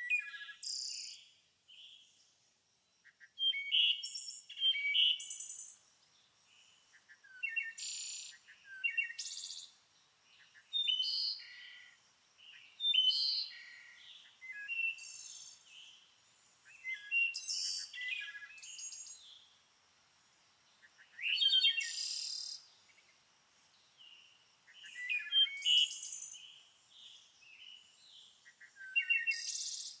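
Songbirds singing in short, high-pitched phrases, repeated every two to four seconds, over a faint steady background hiss.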